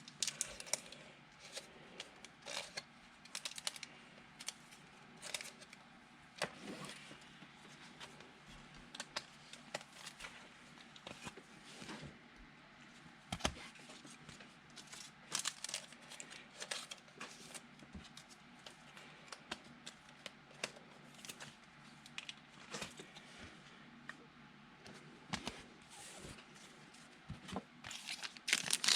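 Trading cards being handled and sorted by hand: many light, scattered clicks and taps.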